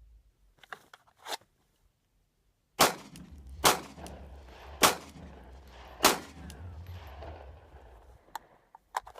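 Four 9mm shots from a Glock 19 Gen4 pistol, fired about a second apart, each a sharp crack with a short echo. Faint clicks come before the first shot and again near the end.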